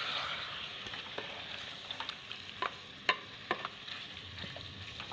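Goat meat and chopped tomatoes sizzling as they fry in a metal pot, stirred with a spoon. A steady hiss is broken by the spoon's scrapes and knocks against the pot, the sharpest about three seconds in.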